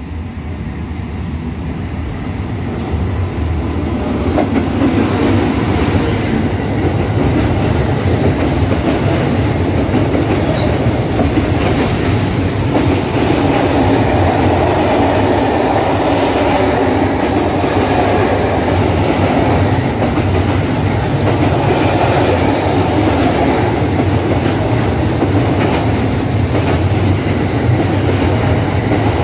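Container freight train hauled by an FS E652 electric locomotive, passing close by. It grows louder over the first few seconds, then comes a steady loud rumble and clatter of the container flat wagons' wheels on the rails.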